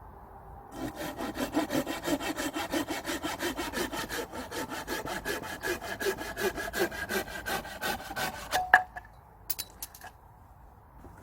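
Saw cutting through wood in fast, even strokes, about five a second, ending in one sharp crack about nine seconds in.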